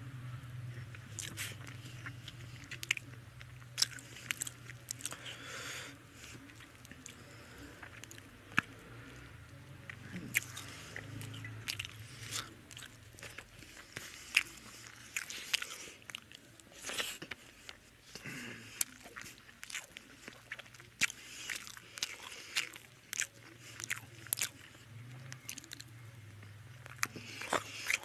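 A person eating rice and fish curry by hand close to the microphone: chewing, with frequent irregular wet smacks and clicks of the mouth, over a faint steady low hum.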